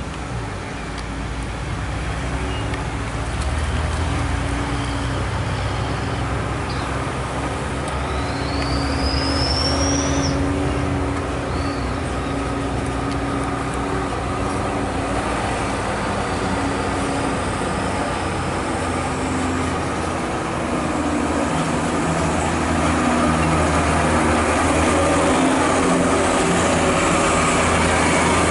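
Heavy truck engine running steadily under load on a steep climb, with road traffic noise around it. A short rising squeal comes about eight seconds in, and the engine grows a little louder in the last few seconds.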